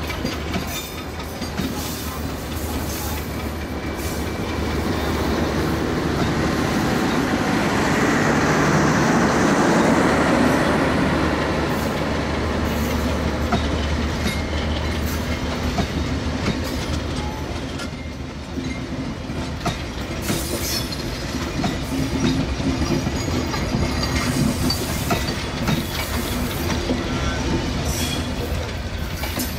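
Passenger coaches of an express train rolling past close by, their wheels rumbling and clattering over the rails. The sound swells to its loudest about ten seconds in, then settles back to a steady rumble with scattered clicks.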